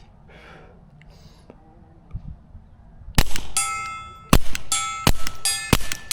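Suppressed Taurus TX22 .22 LR pistol firing CCI subsonic rounds in quick succession, starting about three seconds in, each hit making a 12x20 steel plate ring with a clear metallic ding.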